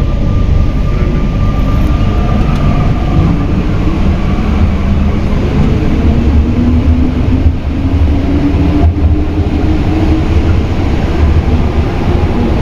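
Alstom NS-93 rubber-tyred metro train running, heard from inside the car: a steady low rumble with a motor whine that rises slowly in pitch as the train picks up speed out of the station.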